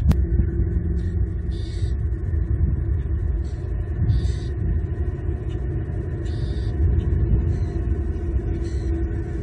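Steady low rumble on the outdoor nest-camera microphone, with a faint steady hum. Short high chirps come every two to three seconds, fitting the small birds that are harassing the eagle.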